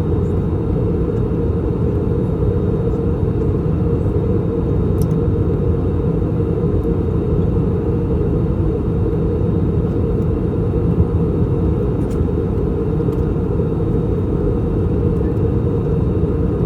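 Steady cabin roar inside an Airbus A321-200 in flight, from its IAE V2533-A5 engines and the airflow past the fuselage, deep and even with no change in level.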